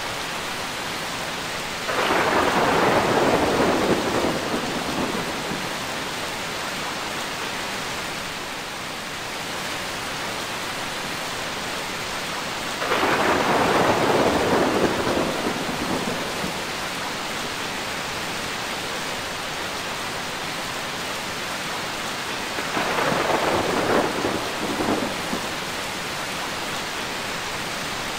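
Steady heavy rain with three rolls of thunder, each starting suddenly and fading out over a few seconds: about two seconds in, near the middle, and a shorter one towards the end.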